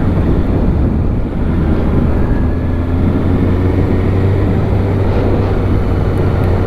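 Kawasaki Ninja ZX-6R 636's inline-four engine running at a steady cruise, a constant low drone with a rush of noise over it.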